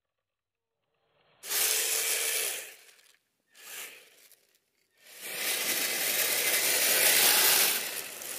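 Tracked RC snow vehicle running over icy snow crust, its tracks scraping and hissing in three surges: a short one about a second and a half in, a brief faint one, and a longer, louder one over the last three seconds.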